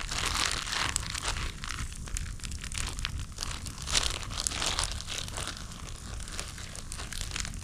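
Plastic bags and packets crinkling and rustling as they are rummaged through, a steady run of small crackles and crunches.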